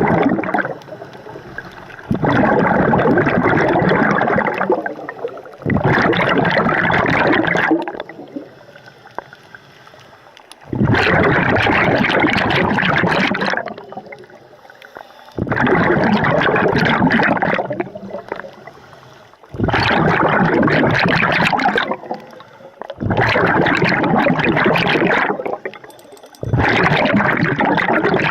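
Scuba diver breathing through a regulator under water: loud rushes of exhaled bubbles lasting two to three seconds, about every four seconds, with quieter inhalations in between.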